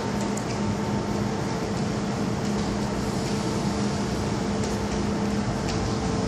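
Steady hum of an MTR M-Train standing at the platform behind closed platform screen doors, its air-conditioning and auxiliary equipment running with a low steady tone, and a few faint clicks.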